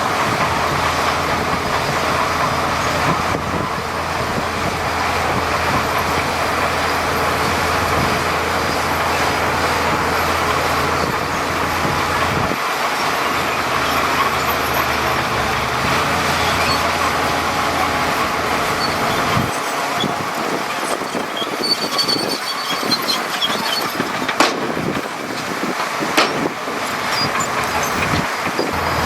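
Heavy diesel earthmoving machinery running at a construction site: a steady low engine rumble for most of the first twenty seconds, easing off after that, followed by scattered metallic clanks and knocks.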